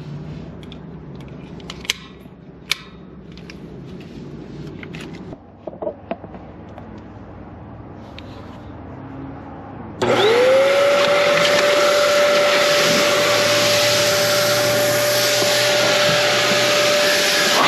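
A few faint clicks and knocks of handling, then a pet hair dryer switched on about ten seconds in. Its motor spins up with a quick rising whine that settles into a steady whine over a loud rush of blown air.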